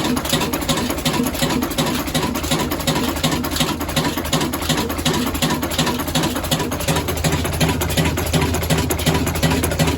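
Old Ruston Hornsby 26 HP, 300 RPM diesel engine running steadily at low speed, with an even, slow rhythmic beat.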